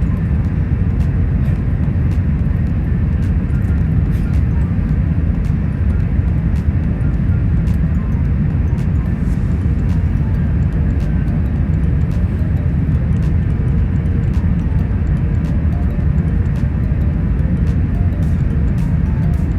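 Steady low rumble of an Airbus A380's cabin in flight, engine and airflow noise heard from an economy seat, with a few faint ticks.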